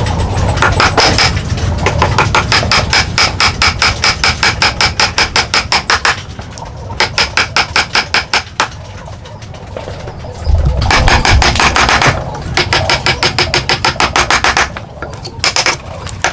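Fast runs of sharp, even taps, about eight a second, in three bursts with short breaks between them.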